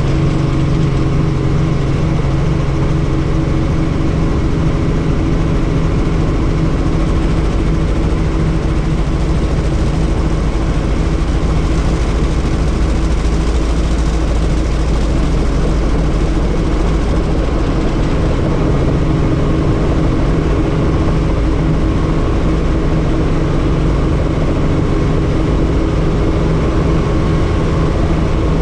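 Helicopter turbine and rotor running steadily, a loud, even drone with a constant hum of rotor tones.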